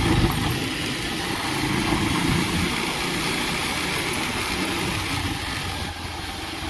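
Bajaj Pulsar 220 motorcycle being ridden, its single-cylinder engine running steadily under a rush of wind noise on the microphone.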